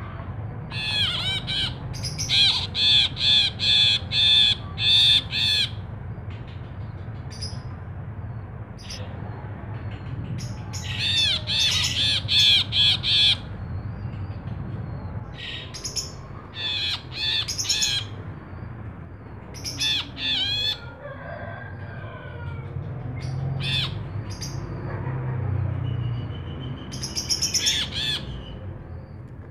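Brinji kelabu, a bulbul, singing in loud bursts of rapid repeated notes, about half a dozen phrases a few seconds apart. A low steady hum runs underneath.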